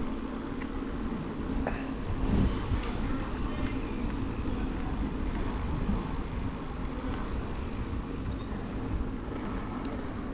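Steady rumbling ride noise on an e-bike: wind buffeting the microphone and tyres on the path.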